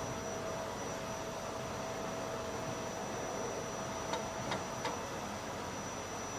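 Steady background hiss of a room with a faint high steady tone, and three light ticks in quick succession in the second half.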